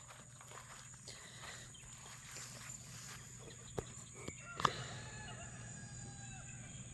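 Quiet outdoor sound of a walking person's footsteps with a few soft calls from the chickens and turkeys following, and a couple of sharp clicks just past the middle.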